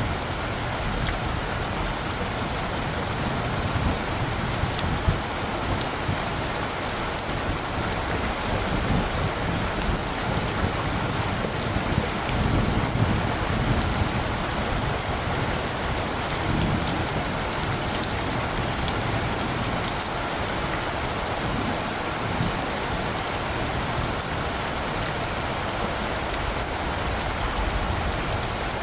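Steady rain falling, with many close drops ticking sharply on surfaces. A low rumble of distant thunder swells briefly in the middle.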